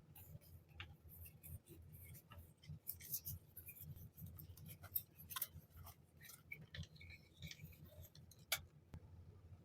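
Hands unpacking and handling small items from a parcel of journaling supplies: quiet, irregular crinkling, rustling and light tapping of packaging, with a few sharper clicks, the clearest about five seconds in and again near the end.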